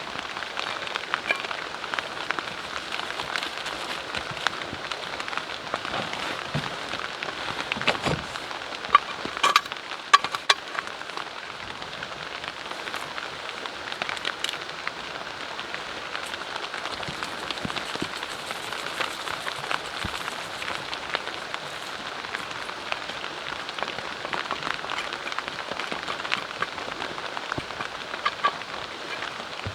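Steady rain pattering on a tent, with many scattered sharp drips and ticks; a few louder clicks come about nine to ten seconds in.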